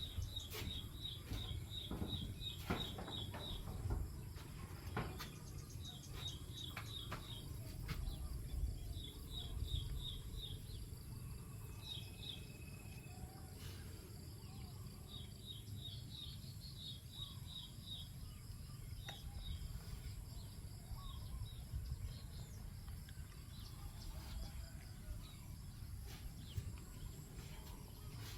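Small birds chirping outdoors over rice fields, short high notes repeated about three a second in runs of several seconds that come and go, over a steady low rumble.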